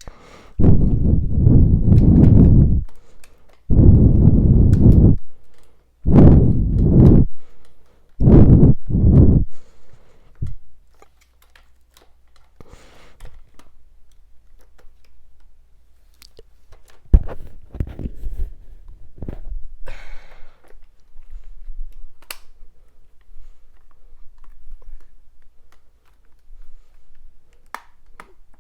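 Close handling noise of plastic vacuum cleaner parts being worked and forced together: four loud bouts of rubbing and knocking in the first ten seconds, then quieter scattered clicks and knocks.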